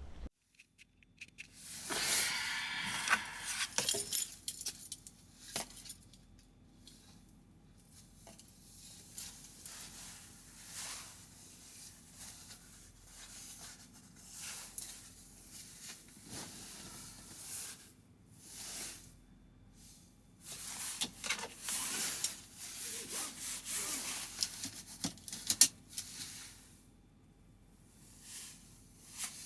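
Irregular rustling and scraping handling noises with scattered sharp clicks, loudest about two seconds in and again in the last third.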